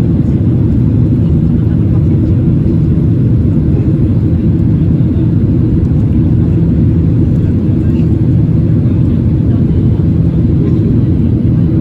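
Steady, loud low noise of jet engines and rushing air heard inside a passenger airliner's cabin.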